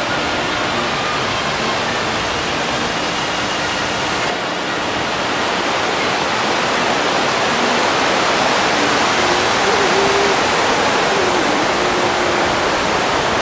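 A waterfall rushing: a steady, loud hiss of falling water.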